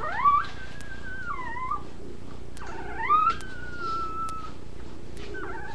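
Puppy whining: long high whines that rise sharply and then hold, one at the start and a longer one about two and a half seconds in that slowly sinks in pitch, with another beginning near the end.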